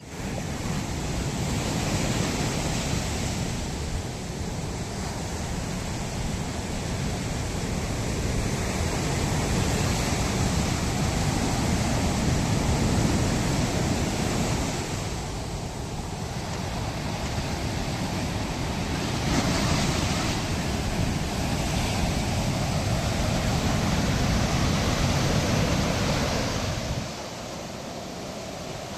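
Ocean surf washing onto a sandy beach: a steady rush of waves that swells and eases every few seconds, dropping in level near the end.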